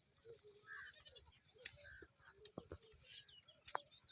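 Faint, scattered short bird chirps with a few sharp clicks over a steady high hiss.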